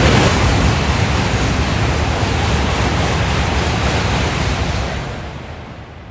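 E5 and E6 series Shinkansen, coupled, passing through a station at speed: a loud rushing roar of air and wheels. It is loudest at the start and fades away in the last second or two.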